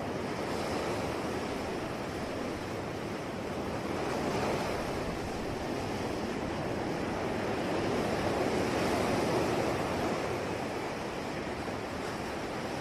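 Sea surf: waves breaking and washing ashore in a continuous rushing wash, swelling slightly louder about four seconds in and again around nine seconds.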